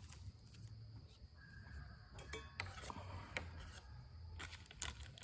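Faint, sharp clinks of indirect percussion on an Onondaga chert preform as it is thinned, a few scattered taps of the punch against the stone's edge.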